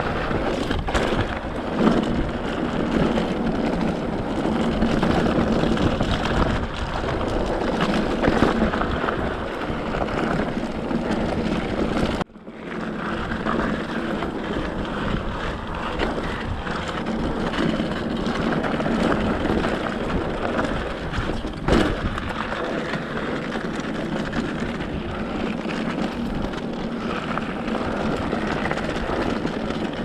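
Wind buffeting the microphone and tyre rumble from an electric mountain bike being ridden fast on a dirt trail, with a faint steady hum under it. The sound drops out for a moment a little under halfway through, and there is one sharp knock about two-thirds of the way in.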